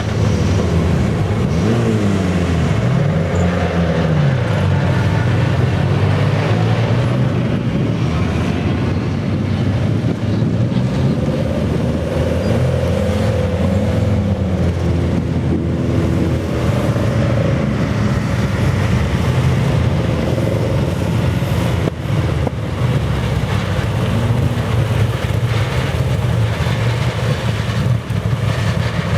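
Saloon racing car engines running. Cars pass by, rising and falling in pitch a few times, over a steady low engine drone.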